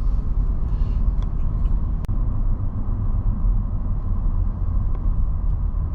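Steady low rumble of a moving vehicle's engine and road noise, heard from inside the cabin, with a single sharp click about two seconds in.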